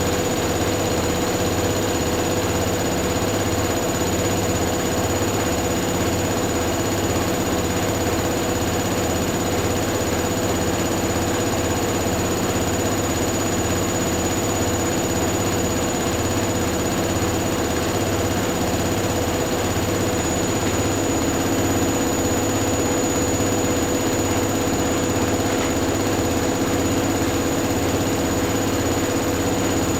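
Two front-loading washing machines, a Hoover Dynamic Next DXA610IW3 and a Whirlpool AWM1850, spinning their drums together: a steady motor hum and whine with a regular low pulsing from the rotating drums. About twenty seconds in, one of the hum tones changes pitch slightly.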